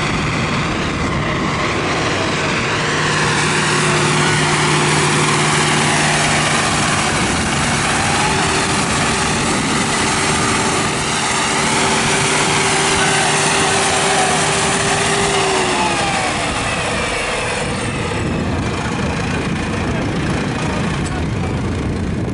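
Tractor engines running at close range; one steady engine tone drops in pitch and fades out about three-quarters of the way through.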